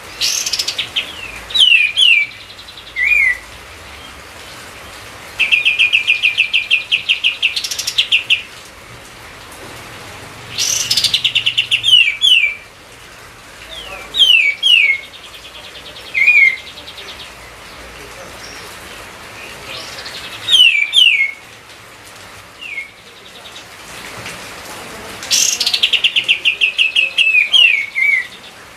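A kapas tembak songbird singing vigorously, in repeated phrases: fast rattling trills, some lasting about three seconds, mixed with short, quick down-slurred whistles, with pauses of a few seconds between phrases.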